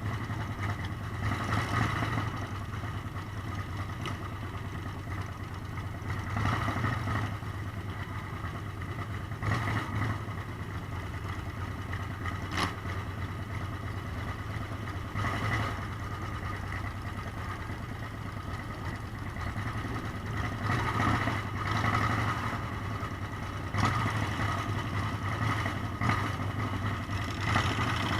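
Motorcycle engine running steadily on the move, swelling louder now and then as the throttle opens.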